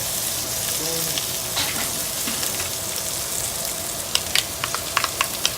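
Chopped bok choy, ginger and garlic sizzling in oil in a hot pan, a steady frying hiss. A quick run of sharp clicks comes near the end.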